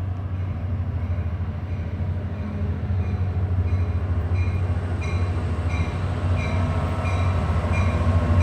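GP40PH-2B diesel locomotive rumbling steadily as the commuter train rolls in. About three seconds in, a bell starts ringing with a strike roughly every two-thirds of a second.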